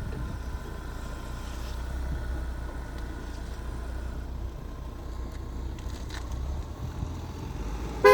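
A car's engine running at idle with a steady low rumble, then one short, loud car-horn toot at the very end.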